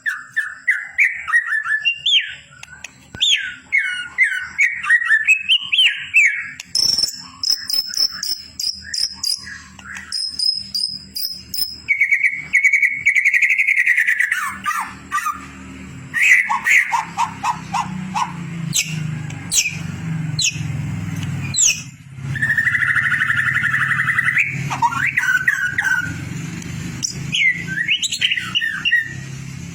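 White-rumped shama (murai batu) song: a fast, varied run of rich whistled phrases, rattling chatters and trills, broken by sharp high notes.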